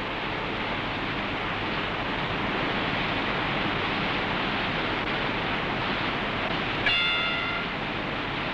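Rushing white water in a river rapid, a steady roar. About seven seconds in, a brief high-pitched tone sounds for under a second.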